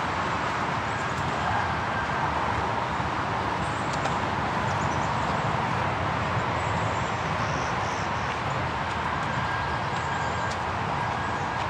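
Walking footsteps along a trail over a steady outdoor hiss.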